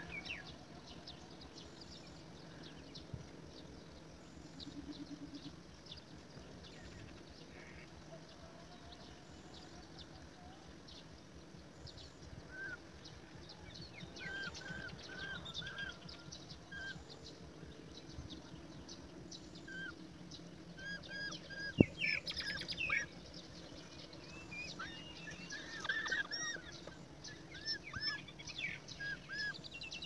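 Birds calling in short, repeated chirps that grow more frequent in the second half, over a low background hiss. One sharp click is heard a little after the middle.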